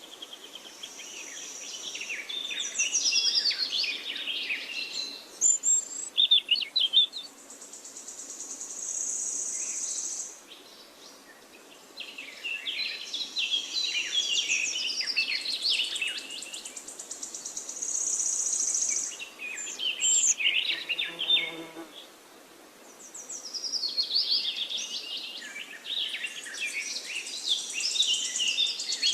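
Forest songbirds singing in bursts of quick chirps and warbles, with brief lulls between phrases. A high, buzzing trill runs over them in long stretches of several seconds.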